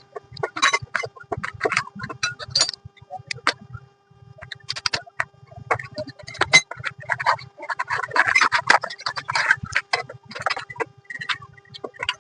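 Irregular metallic clicks and clinks of hand tools working on a motorcycle's rear wheel as it is refitted after a chain sprocket replacement.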